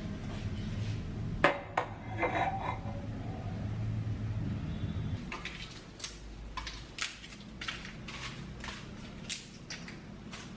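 Kitchen utensils knocking and clinking against pots and dishes: a few sharp knocks and a short clatter, then scattered light clicks. A low steady hum runs underneath and stops about halfway.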